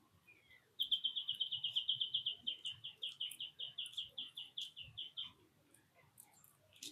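A songbird singing one long trill of short, rapid, repeated notes that starts fast and gradually slows, lasting about four and a half seconds.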